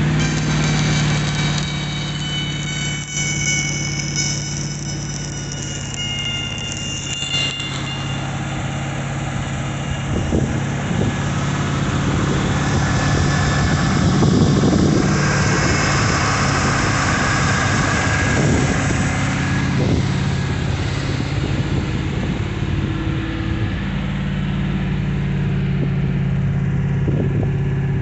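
Ram Power Wagon engine running steadily to drive an under-hood Premier Power welder, with a high whistle in roughly the first seven seconds. From about ten seconds in, the irregular crackle and sizzle of arc welding comes over the engine.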